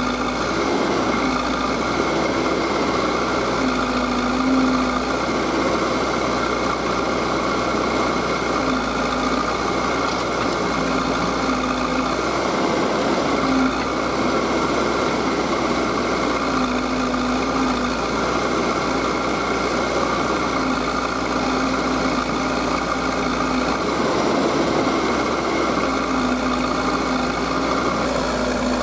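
Diesel engine of working tractor or earthmoving machinery running steadily. A low droning tone swells and fades every few seconds over the steady engine noise.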